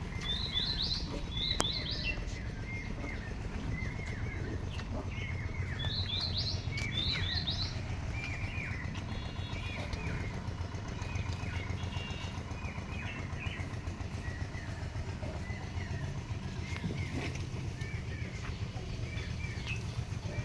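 Small birds chirping over and over, short notes with brief runs of higher twitters, over a steady low background rumble.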